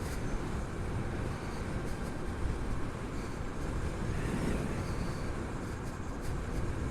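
Wind rushing and buffeting over a chin-mounted helmet camera's microphone, with road noise, while riding a Harley-Davidson LiveWire electric motorcycle.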